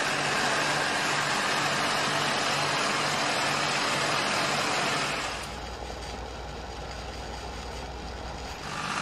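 Car engine idling: a steady low hum under a loud, even hiss. About five seconds in, the hiss falls away and a deeper rumble takes over, then the hiss comes back near the end.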